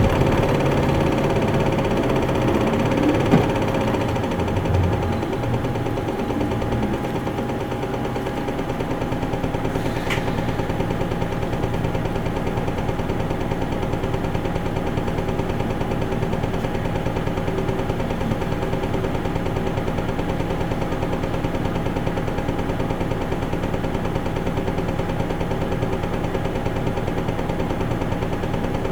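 Isuzu Erga Mio bus's four-cylinder diesel engine heard from inside the passenger cabin. Its sound eases down over the first several seconds, then settles into steady, even running with a faint constant whine. There is a single click about three seconds in.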